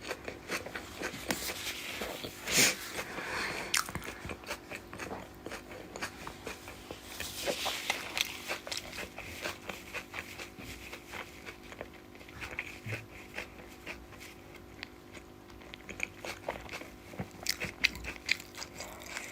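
Close-up chewing and eating sounds: a mouth working on rice and fish curry, with many small clicks, crunches and wet smacks.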